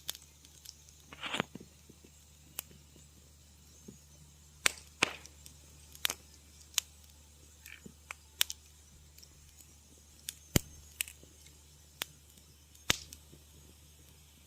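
Wood fire crackling in a fireplace: sharp, irregular pops and snaps about once a second, a few with a short crackle after them, over a low steady hum.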